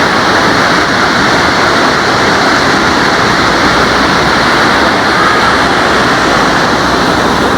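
Small waterfall rushing: a loud, steady wash of falling water.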